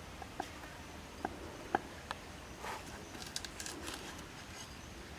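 A few scattered light clicks and taps over the first two seconds, then a short stretch of scratchy rustling.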